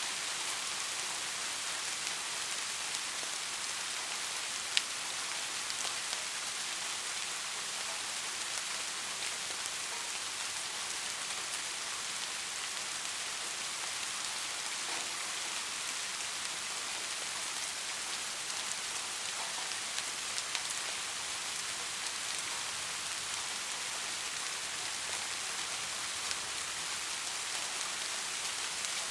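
Steady rain falling, an even hiss with occasional single drops ticking, one sharper tick about five seconds in.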